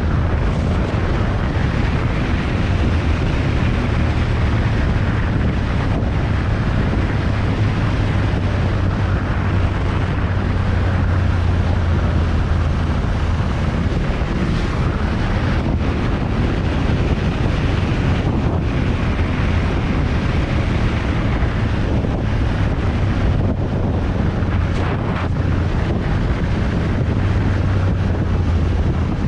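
Motorcycle engine running steadily, its low note rising and falling slightly, with heavy wind noise on the microphone while riding.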